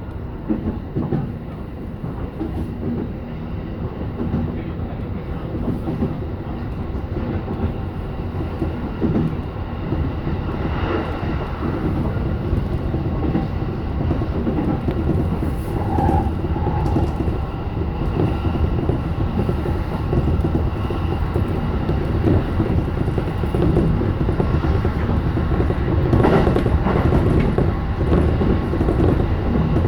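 E233 series electric train running on the rails, heard from inside the leading car: a steady rumble of wheels on track with some clickety-clack, slowly getting louder.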